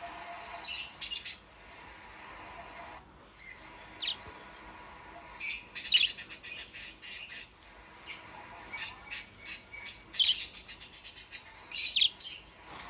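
Budgerigars chattering: runs of quick high chirps and squawks, with sharper single calls about four, six, ten and twelve seconds in.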